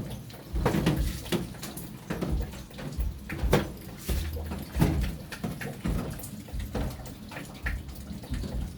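Water splashing and sloshing, with irregular knocks and clatter from handling during the cleaning of a washing machine.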